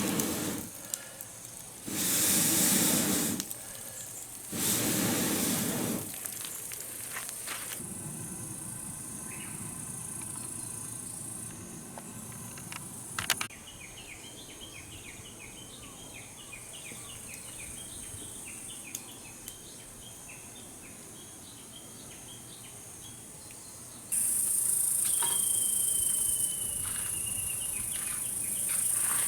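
Outdoor ambience of insects chirping, with a steady high hiss and a quick run of chirps in the middle. Three short bursts of rushing noise come in the first six seconds, and a single held whistle-like call sounds near the end.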